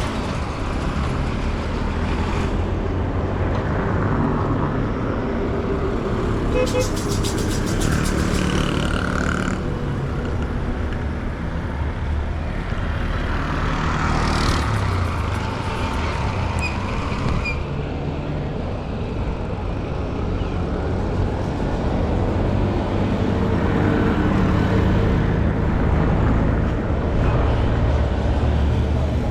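Street traffic: vehicle engines running and passing, with a steady low rumble.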